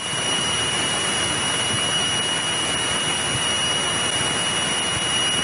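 Steady in-cockpit drone of a 1963 Cessna 172E's Continental O-300 engine and propeller in level cruise, an even rushing noise with a thin, steady high-pitched whine on top.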